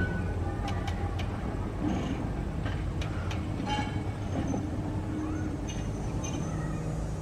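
A train rolling, with a steady low rumble and scattered clicks and knocks.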